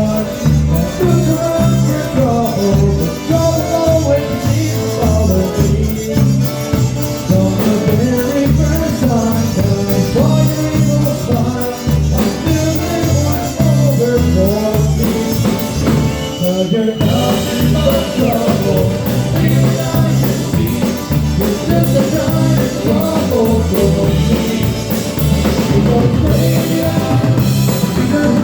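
Live polka band playing a polka, with drum kit and a bouncing bass beat.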